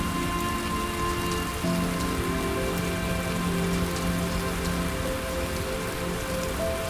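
Steady rain falling, under soft sustained music of long held low notes that shift to new notes about a second and a half in and again near five seconds.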